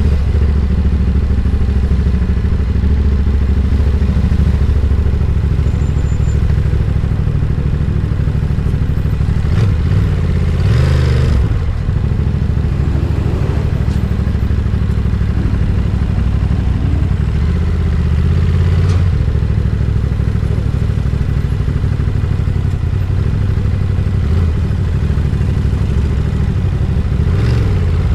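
Ducati Monster 937's twin-cylinder engine running with a steady, deep beat; the engine note shifts briefly about a third of the way in and again about two-thirds of the way in.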